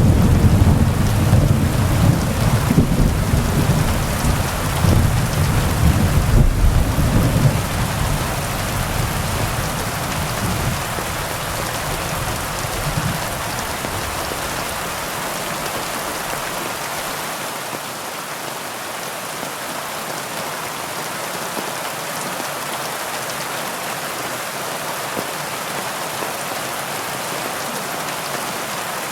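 Heavy rain falling steadily, with a low rumble of thunder that rolls on through the first half and fades away, leaving only the rain.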